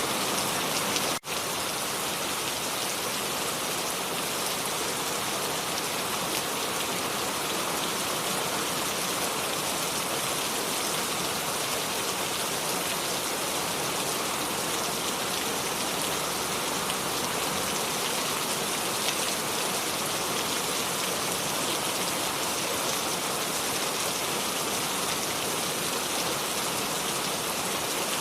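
Steady rain without thunder, an even dense hiss of drops falling on surfaces, broken by a momentary drop-out about a second in.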